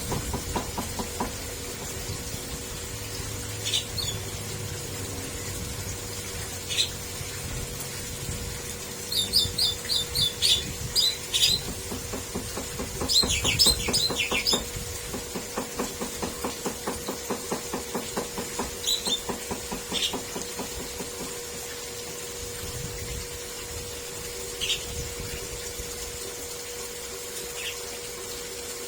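Small cage birds chirping in an aviary: single short high chirps here and there, and two quick runs of rapid chirps about a third and halfway through. A steady low hum runs underneath.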